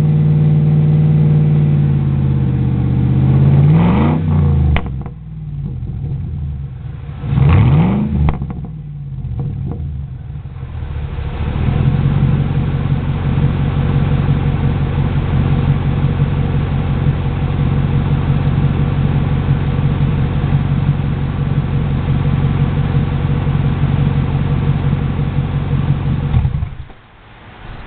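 Ford 5.4 V8 exhaust with the muffler deleted. It runs steadily, is blipped twice with quick revs about 4 and 8 seconds in, then settles into a steady loud idle that cuts off suddenly near the end.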